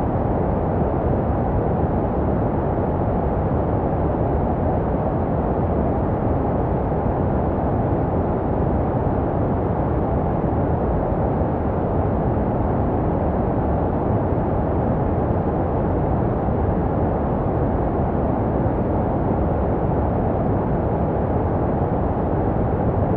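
Steady, unchanging white noise for soothing a baby, deep and muffled with the highs cut away. It is made to resemble the sounds a baby hears in the womb.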